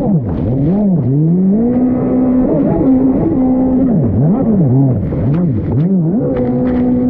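Dirt bike engine being ridden hard: revs climb and drop again and again as the throttle is opened and shut, with a few stretches held steady at high revs. A few short clicks sound over the engine.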